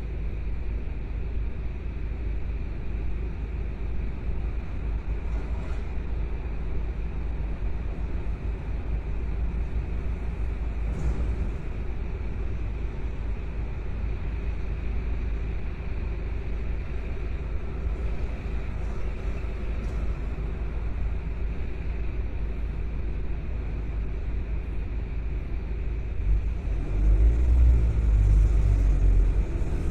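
Car driving along, a steady low rumble of engine and road noise that grows louder near the end.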